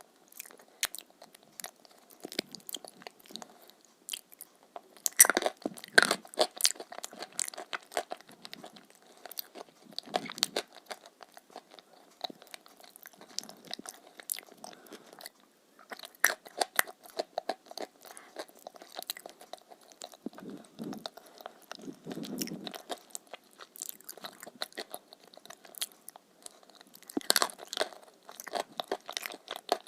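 A person biting and chewing crunchy food, with crisp crackling crunches throughout. The loudest bites come about five seconds in and again near the end.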